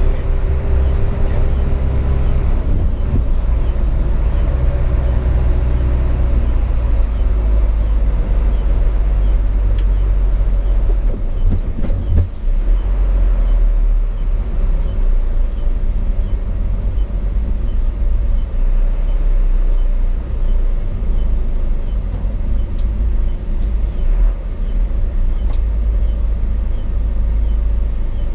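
The inline-six diesel engine of a Hino 500 FM 260 JD ten-wheel truck running under way, heard from inside the cab as a deep, steady rumble. A short high beep sounds about twelve seconds in.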